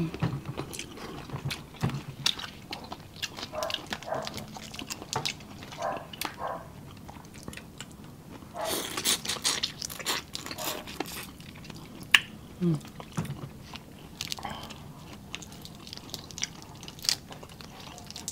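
Close-miked eating sounds of two people eating shrimp, crab and oysters by hand: wet chewing, lip smacks and clicks, with a stretch of sucking sauce off fingers around ten seconds in. A short falling hummed 'mm' comes about thirteen seconds in.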